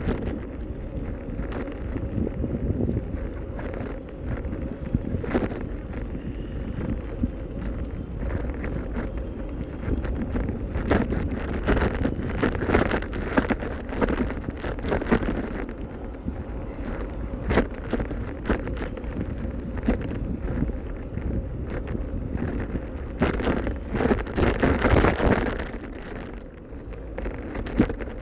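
Wind buffeting the microphone of a moving bicycle, a steady low rumble, with frequent short knocks and rattles, busiest in the middle and near the end.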